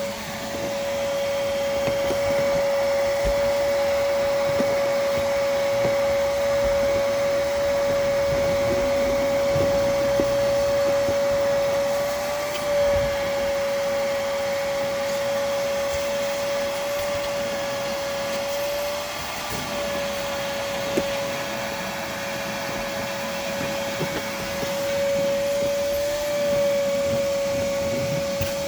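Vacuum cleaner running steadily while a car's interior is vacuumed: a constant whine over a rushing hiss, its pitch lifting briefly a few times, with scattered small clicks.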